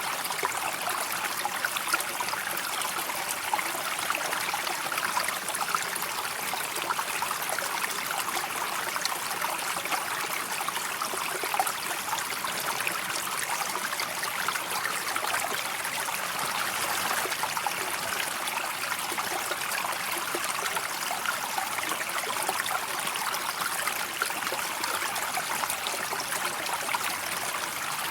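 River water flowing steadily: an even, unbroken rush of moving water with no change in level.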